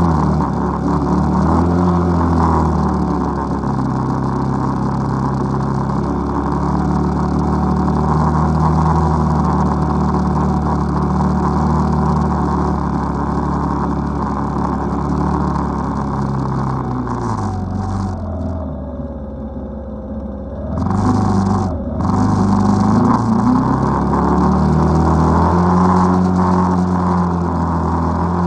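ATV engine running under throttle while riding through snow, its pitch rising and falling with speed changes. About two-thirds of the way through it eases off for a few seconds, then picks up again.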